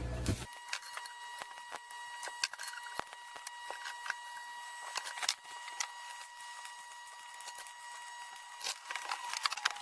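Electric arc welding inside a steel gas-cylinder stove body: a steady crackle with frequent sharp pops, over a constant high whine.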